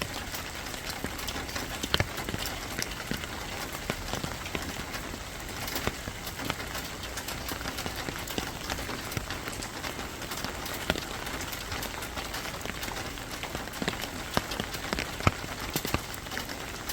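Steady rain falling, a continuous hiss with many individual drops ticking sharply on nearby surfaces at irregular moments.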